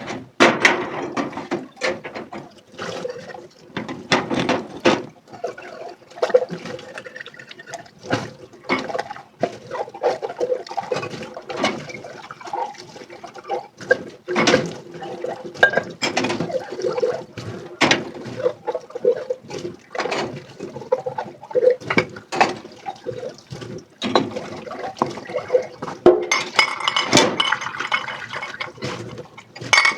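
Dishes being hand-washed in a sink: water splashing and filling, with frequent knocks and clinks of plates and utensils.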